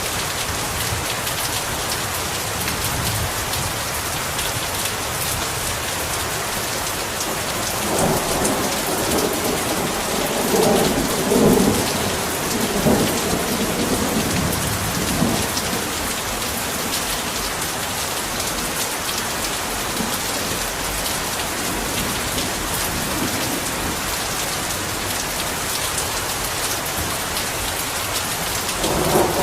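Heavy rain falling steadily, with thunder rumbling through it from about eight seconds in to about fifteen, and again near the end.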